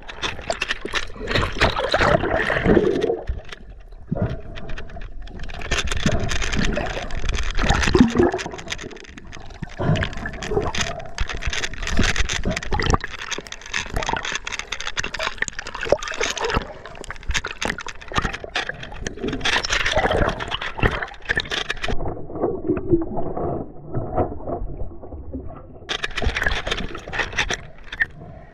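River water gurgling and splashing close to the microphone in irregular surges, with many small knocks and clicks.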